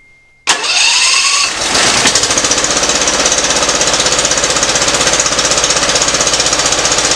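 Briggs & Stratton Professional Series 724cc V-twin engine on a zero-turn mower. It starts about half a second in, catches and settles within about a second and a half, then runs loudly with an uneven, regular pulsing beat. It is not running right; the owner thinks a cylinder is not firing.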